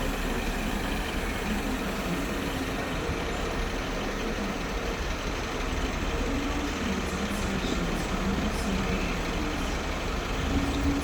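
Diesel train engines running steadily at the platforms: a low engine hum whose pitch wavers up and down over a constant rumble.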